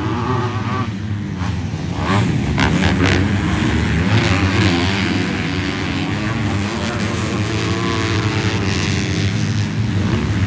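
Several 250-class motocross bikes racing on the track, their engines revving up and down over one another and growing louder about two seconds in.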